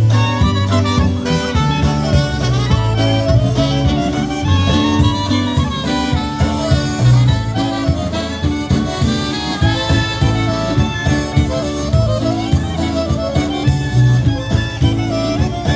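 Polka band playing an instrumental passage, with a steady beat under the melody.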